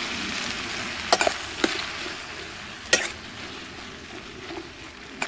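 Chopped onion, potato, pepper and fresh tomato sizzling in oil in a stainless steel pot while being stirred with a metal spoon. The spoon clinks sharply against the pot three times, loudest about three seconds in.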